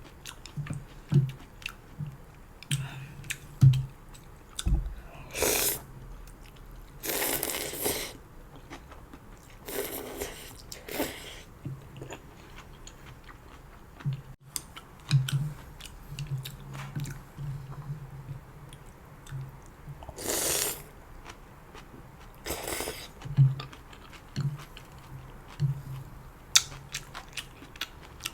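Close-miked eating of janchi guksu (noodles in broth): steady chewing with crunchy, wet mouth clicks, broken by about five longer, louder slurps of noodles and broth.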